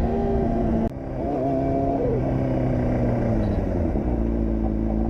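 Motor vehicle engines in traffic. The sound breaks off abruptly about a second in, then the engine pitches slide down and settle into a steady low idle about four seconds in.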